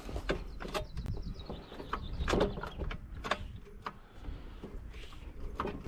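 Irregular mechanical clicks and clunks from the gear shifter of a CRF450 engine being worked by hand, while the gearbox won't select gears.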